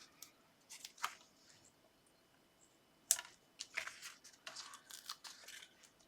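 Paper and card being handled on a craft desk: short rustles and crinkles with small taps, a brief cluster about a second in and a busier run from about three seconds to near the end.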